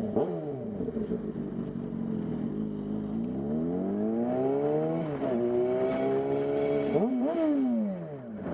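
Car engine accelerating. Its pitch climbs for about two seconds, drops suddenly at a gear change about five seconds in, climbs again, then dips briefly near the end and falls away.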